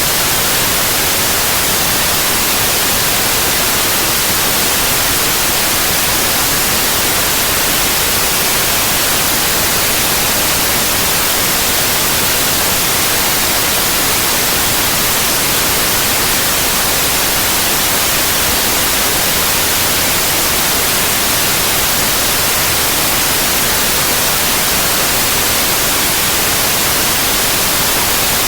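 Steady white noise: an even, unbroken hiss across the whole range, brightest in the highs, with no changes.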